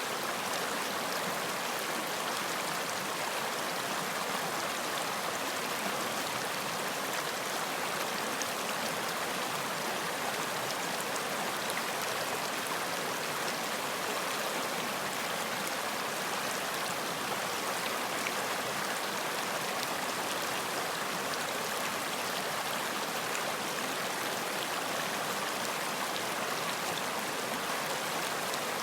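Running water of a stream, a steady even rushing and splashing with fine bright crackle.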